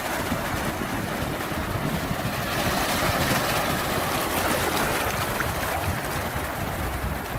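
Ocean waves and surf washing steadily, a continuous rush that swells slightly louder about three seconds in and then eases off.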